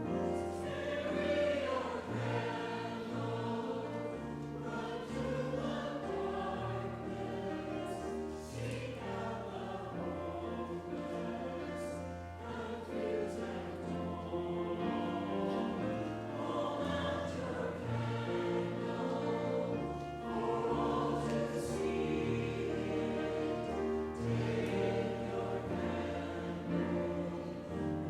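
A choir singing with accompaniment, in long held chords over sustained low notes.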